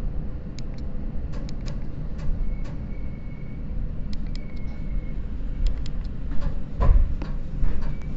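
Seibu Red Arrow limited express train running slowly into its terminal platform: a steady low rumble with scattered clicks and knocks, a faint high squeal twice, and a heavier thump about seven seconds in.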